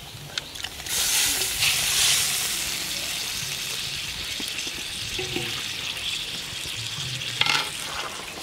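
Fried catfish pieces tipped into hot curry gravy in a kadai sizzle loudly from about a second in, the sizzle slowly easing. A utensil clacks near the end.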